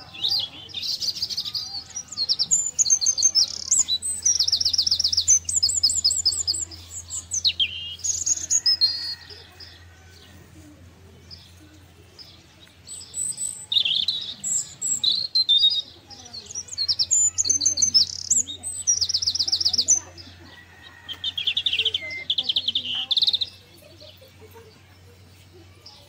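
Small songbirds chirping and trilling in bouts of rapid high trills, each lasting a few seconds, with short pauses between them.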